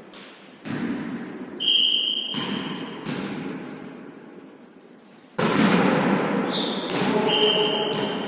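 A volleyball being struck and bouncing, each hit a sharp knock that echoes in a large hall, with a referee's whistle blown twice, briefly near the start and again near the end. About two thirds of the way in, a louder wash of court noise sets in.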